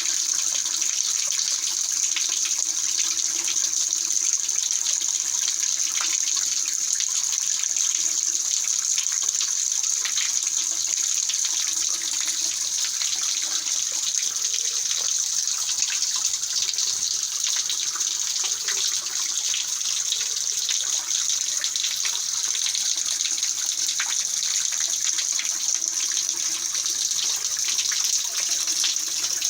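Mountain valley stream running, a steady rush of water over rocks with no break.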